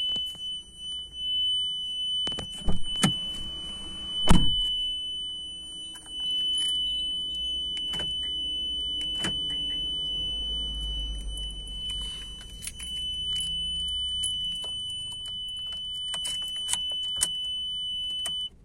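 Maruti Suzuki Fronx reverse parking sensor buzzer sounding one steady high continuous tone that keeps going with the key removed, a fault in the parking warning system. Keys clink and knock against the ignition a few times, loudest around four seconds in. The tone cuts off suddenly near the end.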